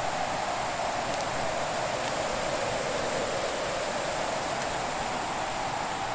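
Fireplace fire burning with a steady hiss and a few faint, sparse crackles.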